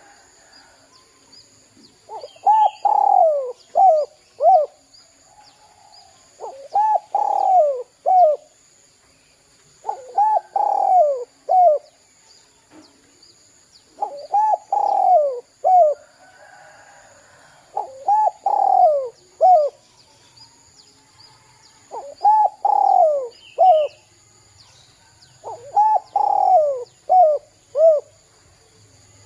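Spotted dove (derkuku) cooing in a steady song: seven phrases about four seconds apart, each a long falling coo followed by two short coos.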